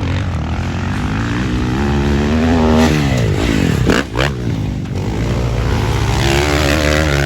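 Motocross dirt bike engine revving hard under throttle, chopped off abruptly just before the middle and then opened up and revving high again.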